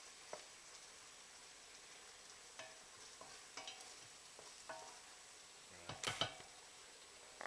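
Pan of shallots, mushrooms and wine sizzling faintly as the wine reduces into a sauce, with a utensil clicking against the pan now and then and a quick cluster of louder knocks about six seconds in.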